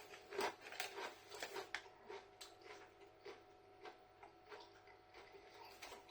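Crunchy tortilla chips being chewed close to the microphone: a run of short, crisp crackles, louder in the first couple of seconds, then fainter and steadier.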